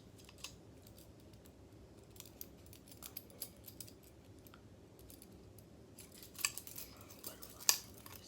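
Light metallic clicks and clinks of a homemade butterfly knife trainer, built from Meccano-style metal strips and screws, being handled; two sharper clacks come near the end.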